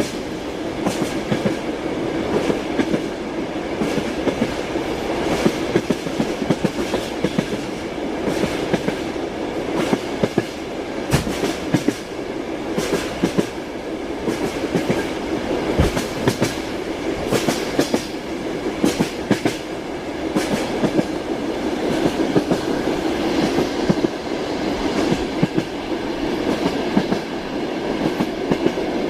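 Train running along the rails: a steady rumble with frequent sharp knocks of the carriage wheels passing over rail joints.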